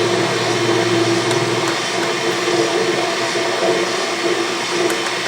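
Autobox 8x16 mini lathe running under power with the auto feed engaged: a steady mechanical whir with a few steady pitched tones, and a low hum that drops out about a second in. The owner blames the feed's misbehaviour on two gears not making good solid contact.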